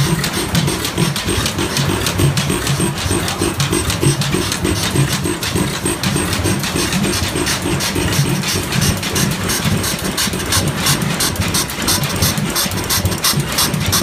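Antique stationary engine running steadily: a low, pulsing beat with a regular clatter of sharp ticks several times a second, which grows clearer in the second half.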